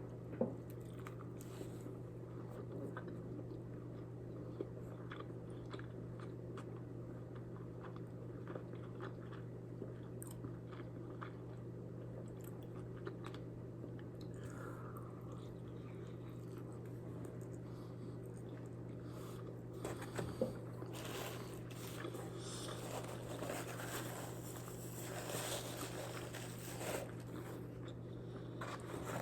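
A man biting into and chewing a double smashburger with pickles and grilled onions: faint chewing and mouth noises over a steady low hum. The chewing gets busier about twenty seconds in.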